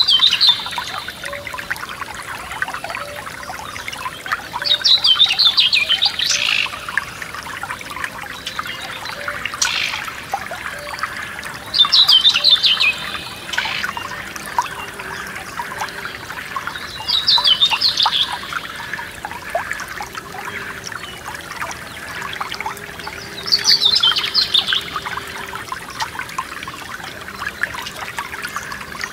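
A forest stream trickling over stones, with a songbird singing a short phrase of rapid notes five times, roughly every six seconds.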